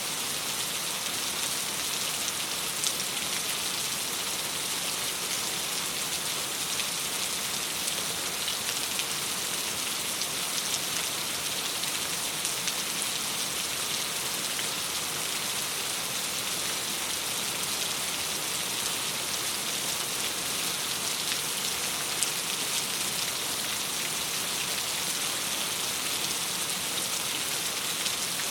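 Steady rain pattering against a window glass: an even hiss with faint scattered drop ticks.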